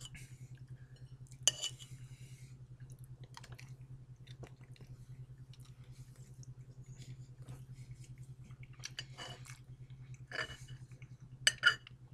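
Chewing a mouthful of barbecue rib patty, with scattered sharp clicks and scrapes of a fork against a ceramic plate, the loudest about a second and a half in and near the end. A steady low hum runs underneath.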